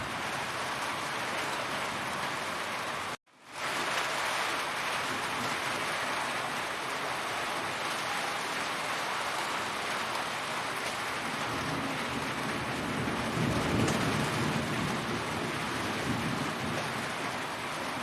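Heavy rain falling in a steady hiss. It cuts out to silence for a split second about three seconds in and quickly fades back, and a low rumble swells briefly about three-quarters of the way through.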